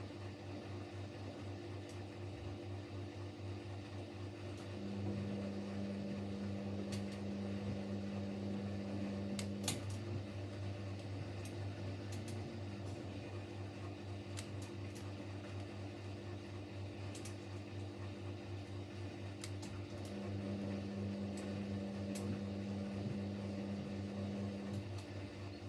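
Siemens Siwamat Plus 574 washing machine running its short spin after the final rinse: a steady low hum with a fast even pulse, joined twice by a higher hum for about five seconds, with scattered light clicks.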